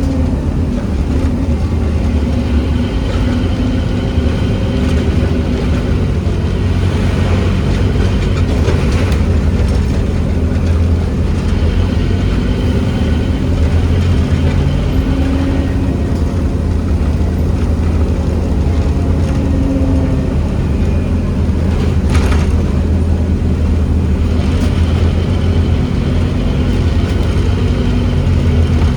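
Scania N270UD OmniCity double-decker bus on the move, heard from on board: its engine and drivetrain make a steady low drone, with fainter tones coming and going above it. A single sharp knock or rattle about 22 seconds in.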